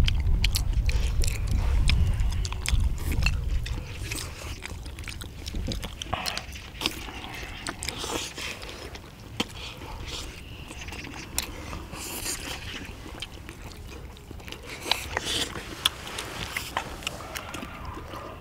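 Several people chewing and eating spicy braised chicken with beef intestines, with short clicks of chopsticks and spoon on plates. A low rumble runs through the first few seconds.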